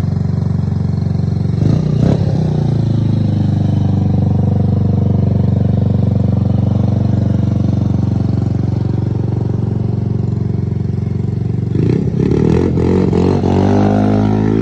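GY6 50cc scooter's single-cylinder four-stroke engine idling steadily, blipped twice about two seconds in and revved for a couple of seconds near the end.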